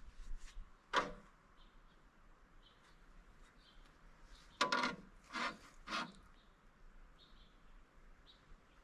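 A sharp knock about a second in, then three louder knocks and scrapes in quick succession a few seconds later, from handling the sawmill's leveling jacks and frame.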